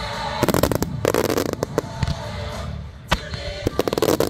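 Fireworks launching in rapid volleys: a dense run of sharp bangs and cracks starting about half a second in and lasting about a second, then a second cluster near the end, with show music playing underneath.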